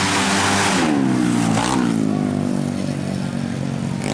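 Drag-race motorcycle engine revving hard under a loud rush of noise, its pitch climbing and then dropping sharply about one and a half seconds in.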